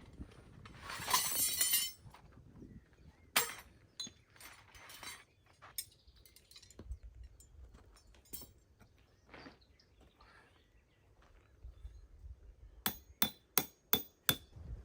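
Camp gear being handled: a short rustling burst, scattered clicks and knocks, then near the end a quick run of six sharp clinking strikes, about four a second.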